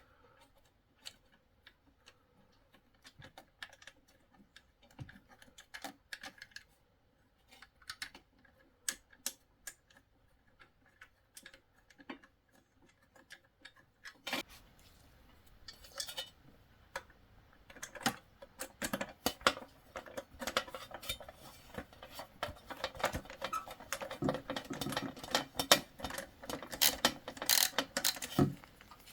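Small sharp clicks and taps of a screw being driven and plastic heater housing parts being handled. They come sparsely at first, then quicker and busier from about halfway through.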